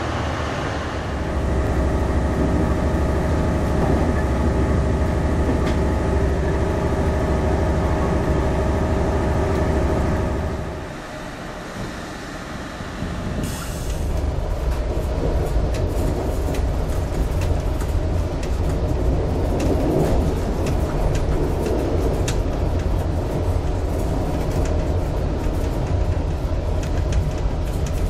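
A train's steady hum with several held tones. After a break about thirteen seconds in, it gives way to a train running along the track, heard from inside the cab, with frequent sharp clicks from the wheels on the rails.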